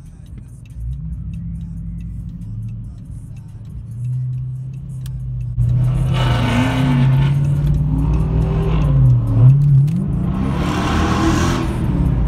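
Chrysler 300 SRT8's 6.4 L Hemi V8 through its SLP Loudmouth cat-back exhaust, heard from inside the cabin: a low steady drone at first, then about halfway in it gets suddenly much louder as the car accelerates away, the engine pitch rising, dropping briefly with a gear change and rising again.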